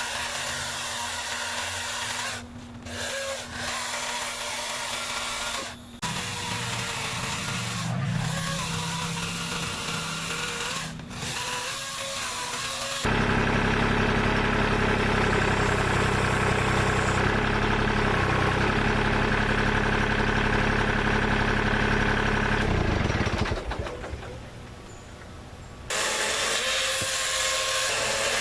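Greenworks 60-volt battery chainsaw cutting wood, its motor running under load with brief dips. About halfway through the sound turns louder and fuller, then drops off for a moment near the end before the saw runs again.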